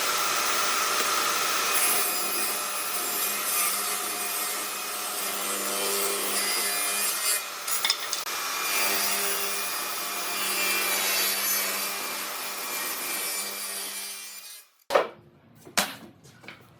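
Electric power tool working wood, running with a steady motor hum under a continuous abrasive rasp, then cutting off about fifteen seconds in. A few sharp knocks follow near the end.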